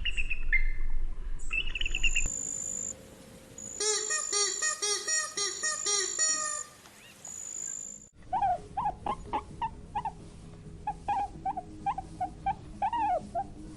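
Bird calls in three abruptly cut sections: high chirps, then a steady high whistle with a quick run of repeated pitched calls, then many short peeping calls with rising glides.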